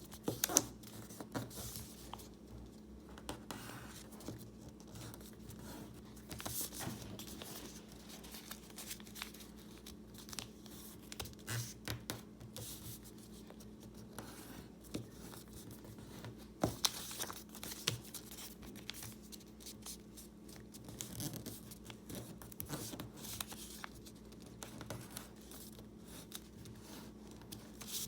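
Printer paper being folded and creased by hand: scattered rustles, soft scrapes and short crackles as the sheet is handled and its folds are pressed flat, over a faint steady hum.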